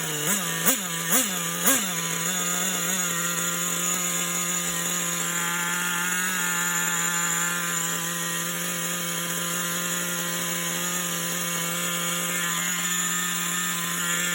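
HPI WR8 3.0's G3.0 nitro engine running just after starting on the first pull: it is blipped about five times in the first two seconds, then settles to a steady idle.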